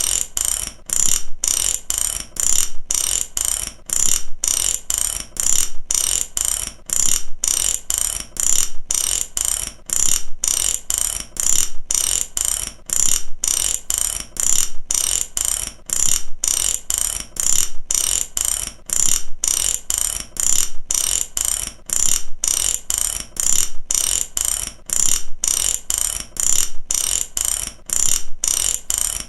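Mechanic's ratchet wrench being cranked back and forth, a fast run of pawl clicks in each stroke, repeating evenly at about one and a half strokes a second.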